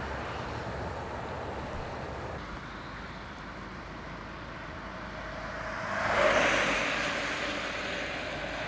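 A road vehicle passes by: its noise builds to a peak about six seconds in and then fades, over a steady background of outdoor noise.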